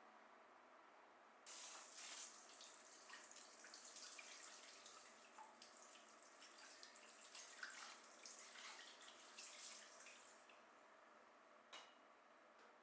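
Water running, as from a tap, for about nine seconds: it starts suddenly a second and a half in and stops near the end, with small splashing flecks through it.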